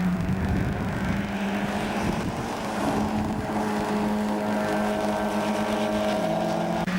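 Mazda MX-5 Cup race cars' inline-four engines running hard at speed, with a steady drone throughout. About four seconds in, one engine note climbs steadily as a car accelerates through the gears, then cuts off suddenly.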